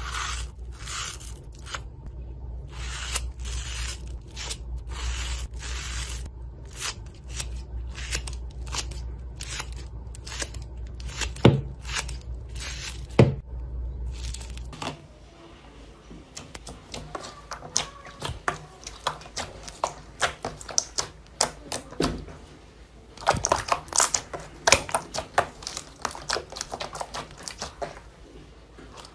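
Close-up crunchy material being crushed and torn: a run of short noisy crunching strokes, about two a second, over a low hum. About halfway it changes to a quieter, dense crackle of small sharp clicks and pops, with a busier, louder cluster a few seconds before the end.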